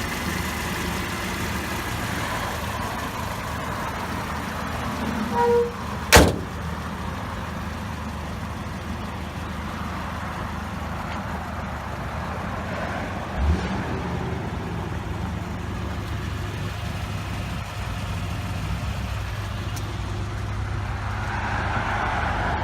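A car engine running steadily at idle, with a short beep about five seconds in, a sharp knock just after it, and a brief low thump about halfway through.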